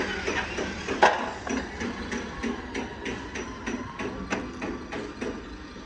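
Hand hammer striking repeatedly, about three blows a second, with one much harder blow about a second in.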